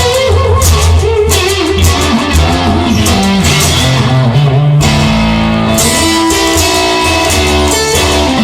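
Blues-rock instrumental passage: electric guitar playing bending, sliding lead lines over bass guitar and a steady rhythm.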